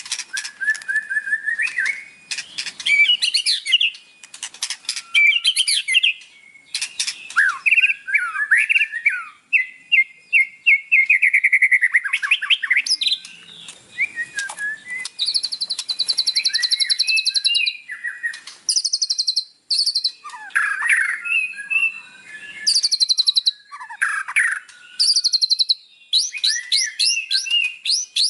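White-rumped shama singing a fast, varied song: whistled phrases sweeping in pitch, buzzy rapid trills and rattling notes, strung together with short breaks. This is the aggressive, full-volume song used as a lure to rouse a caged shama's fighting spirit.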